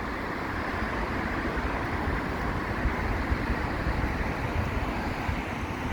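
Steady outdoor background noise of road traffic with wind buffeting the microphone, as a low unsteady rumble.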